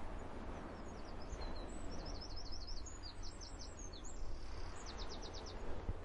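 A small bird chirps in quick runs of high notes, ending in a fast series of about six notes near the end. Underneath is the steady low rush of distant sea surf.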